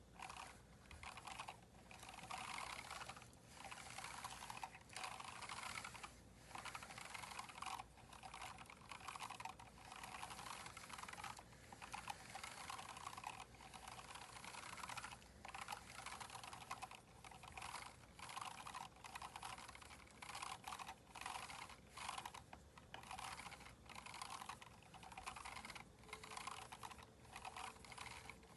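Continuous typing on a Keychron K4 mechanical keyboard with swapped aftermarket keycaps, a fast run of key clacks broken by short pauses between bursts.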